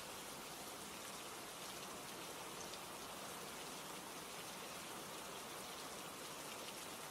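Steady rain ambience: an even hiss of falling rain with occasional faint ticks of drops.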